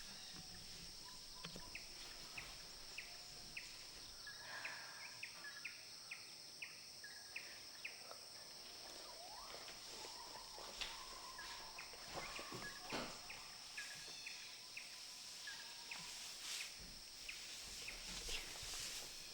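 Faint forest-edge morning ambience: a steady high insect drone, with a bird repeating a short chirp about twice a second through the first half and other birds calling now and then. A couple of brief knocks come around the middle.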